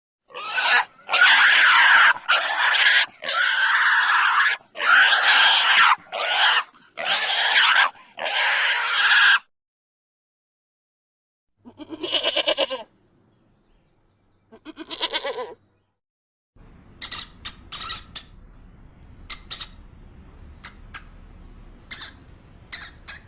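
A sequence of animal calls. First comes a run of about nine loud, harsh calls, one after another. After a pause there are two long, quavering bleats, then many short, sharp, high squeaks.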